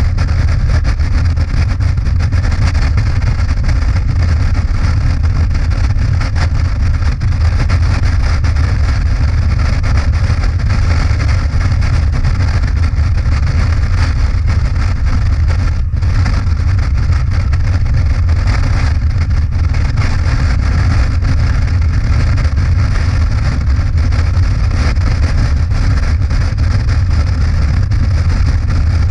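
Motorcycle riding at steady speed: engine drone mixed with heavy wind rush on the microphone, unbroken throughout.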